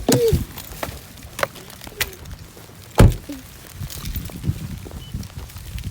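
Hurried footsteps with several knocks and one heavy thump about three seconds in.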